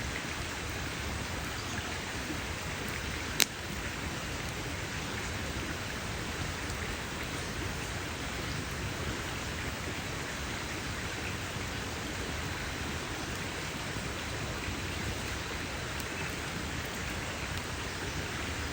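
Campfire burning with a steady crackling hiss, and one sharp, loud pop about three seconds in.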